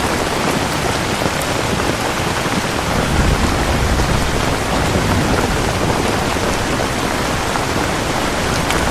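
Rain falling steadily, a dense even hiss of drops. A low rumble swells about three seconds in and fades a second or so later.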